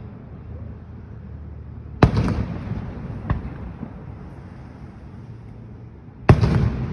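Fireworks going off: two loud bangs about four seconds apart, each followed by a rolling rumble, with a smaller crack between them.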